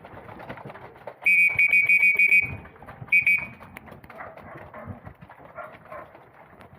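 Rapid electronic beeping, about six beeps a second at one steady high pitch for just over a second, then a brief second burst of beeps about a second later.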